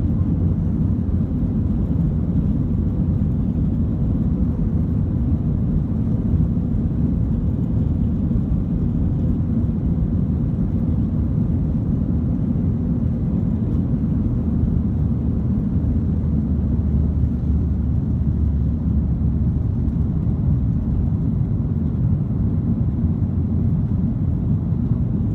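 Steady low rumble of a Boeing 737-900 heard from inside the passenger cabin, with a deeper hum that swells for a few seconds past the middle.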